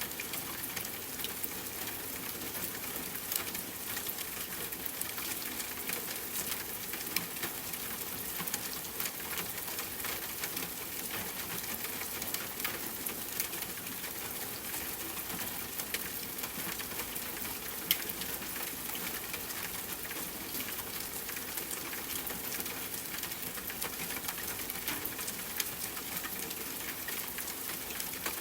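Steady rainfall hiss mixed with a crackling wood fire, its small sharp pops scattered throughout and one louder pop about two-thirds of the way in.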